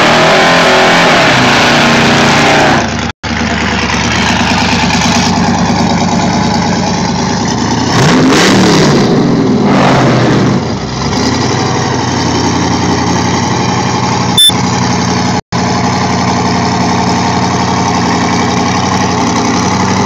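Drag-race car engines at the staging lanes, loud and close: revving hard at the start and again about eight seconds in, rising and falling, then a muscle car's engine idling steadily beside the listener.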